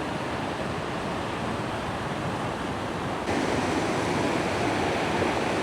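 Steady rush of a river cascade tumbling over rocks. About three seconds in, it jumps suddenly louder and brighter.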